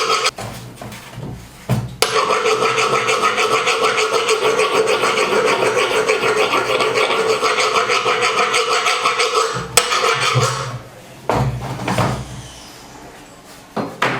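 Quick back-and-forth scraping on the metal shaft of a washing machine's spin-dryer tub, about four strokes a second, with a short break near the start and stopping about ten seconds in. The rubbing is taking off crusted gunk on the shaft that made it squeal as it turned in its bush.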